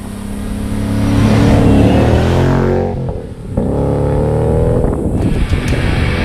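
Supercharged 5.0-litre V8 of a Saleen Mustang accelerating hard, its pitch rising, breaking off briefly at a gear change about three seconds in, then rising again. Heavy rock music comes in about five seconds in.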